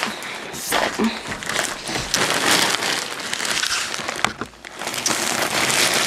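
A shopping bag and its paper wrapping being rustled and crinkled as items are handled and pulled out, an uneven crackly rustle throughout.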